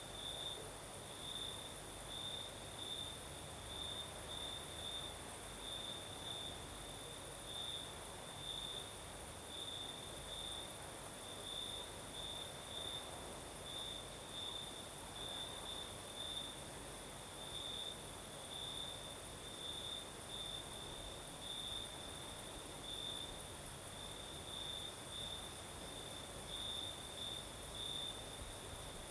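Crickets singing at night: a close cricket's short chirps repeat unevenly about once or twice a second, over a steady high-pitched hiss.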